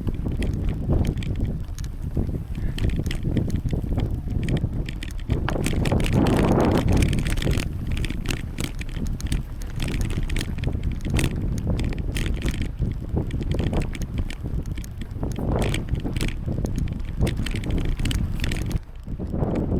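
Wind buffeting the microphone of a bicycle being ridden, over a low rumble with many small rattles and clicks. The wind gusts louder about six seconds in and drops away briefly near the end.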